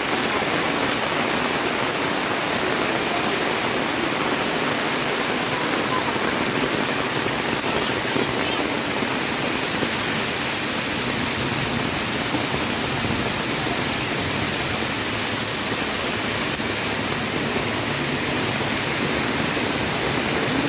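Heavy rain pouring down steadily, an even, dense rush with no breaks.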